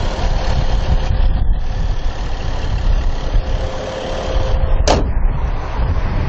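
2011 BMW 335i's twin-scroll turbocharged inline-six idling steadily, heard with the hood open. A faint steady tone runs over the idle and stops about five seconds in, where a short sharp sound comes.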